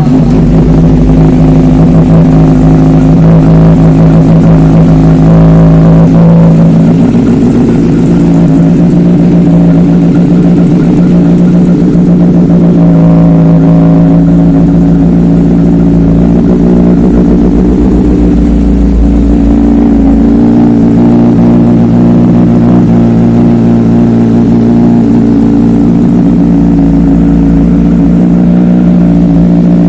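Honda Repsol-edition superbike's engine running loudly with a steady note that shifts a few times.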